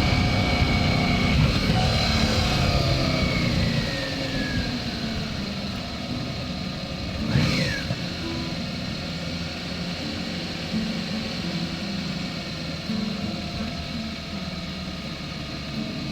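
Motor vehicle engine running, its pitch falling over the first few seconds as it slows. About seven seconds in, a vehicle passes with a brief rise and fall in sound, then steadier, quieter engine and road noise.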